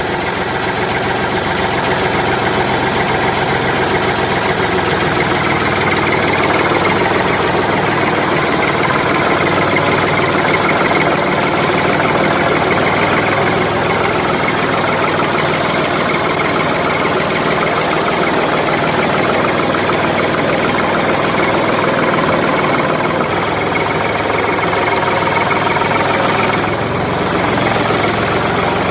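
Small engine or motor of a miniature DIY machine running steadily after starting, with an even mechanical drone and no change in speed.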